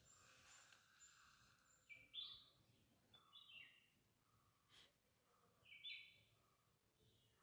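A bird singing faintly: a short phrase of quick notes falling in pitch, repeated three times a second or two apart, with a thin high whistle near the start and a single faint click in the middle.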